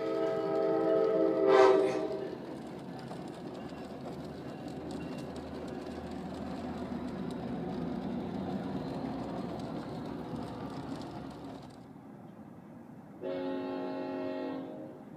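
Locomotive air horn sounding a chord that cuts off about two seconds in, followed by the rumble of a passing train that slowly fades away. A second, shorter horn blast sounds near the end.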